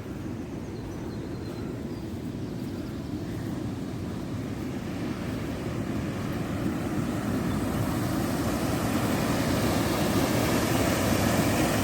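Rushing water of a waterfall: a steady noise that grows steadily louder as the waterfall is approached.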